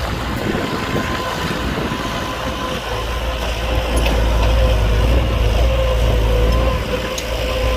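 Heavy diesel construction machinery running: a deep engine rumble with a thin steady whine above it. The rumble swells about three seconds in and eases briefly near the end.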